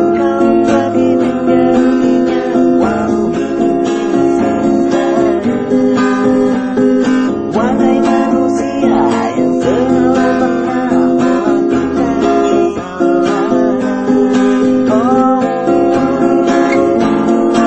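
Acoustic guitar strummed and picked in a steady accompaniment.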